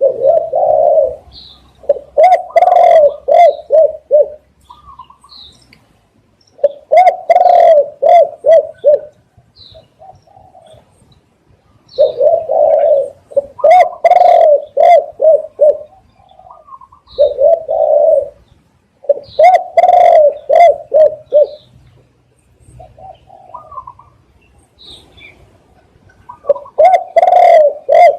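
A spotted dove cooing loudly in repeated phrases, each a quick run of short, low coos, with pauses of a few seconds between phrases.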